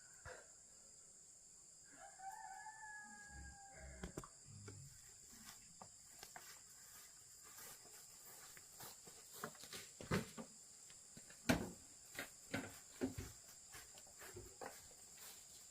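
A rooster crowing once, a single call of about two seconds about two seconds in. Then come scattered irregular knocks and clicks, with a steady high insect drone underneath.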